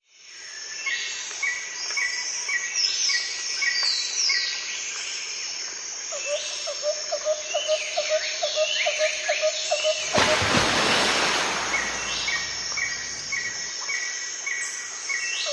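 Forest ambience of several birds chirping and calling, with short repeated chirps and sweeping whistled calls, over a steady insect background. It fades in at the start, and a rushing noise swells briefly about ten seconds in.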